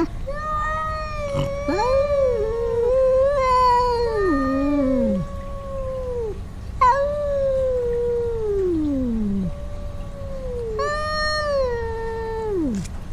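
Cat yowling: a series of long, wavering, drawn-out calls, each sliding down in pitch at its end. It is the warning yowl of a cat scolding an intruding cat.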